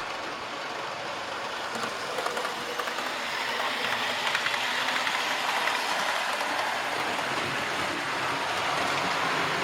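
OO gauge model train running on the layout's track, a steady rumble of wheels and motor that grows louder about three and a half seconds in.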